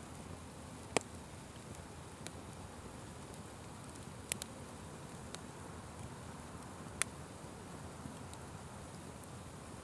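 Wood fire burning with a steady low hiss and scattered sharp crackling pops: a loud single pop about a second in, a quick double pop near the middle and another loud pop later on.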